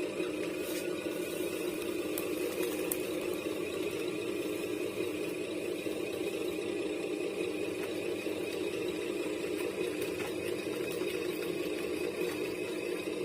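Small motor of a radio-controlled scale model running with a steady, even hum, with a few faint clicks in the first few seconds.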